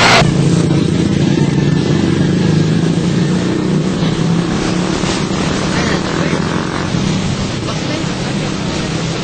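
An engine running at a steady speed, a low hum that starts abruptly just after the opening.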